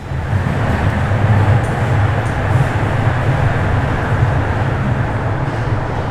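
Bombardier Toronto Rocket subway train running through the tunnel, heard from inside the car: a steady, loud low rumble of the motors and wheels on the rails.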